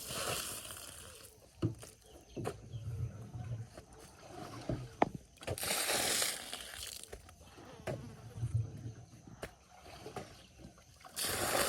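Water splashing and sloshing onto mud in three short bursts, with scattered knocks and thuds between them.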